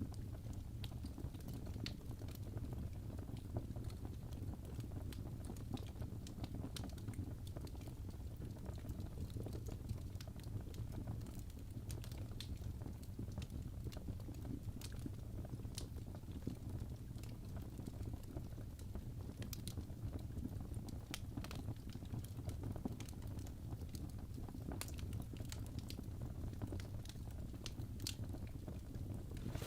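Birch logs burning in a fireplace: irregular sharp crackles and pops over a steady low rumble of the fire.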